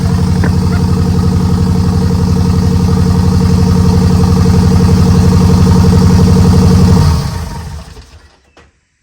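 Renault Megane R26 2.0 turbo four-cylinder engine, swapped into a Clio, running steadily and a bit rough, then switched off about seven seconds in and dying away. It is running rough because one injector is unplugged.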